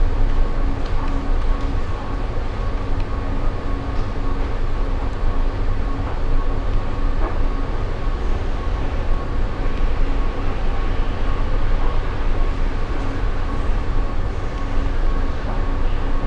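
Steady low rumbling background noise with a thin, steady high hum over it and a fainter hum that comes and goes.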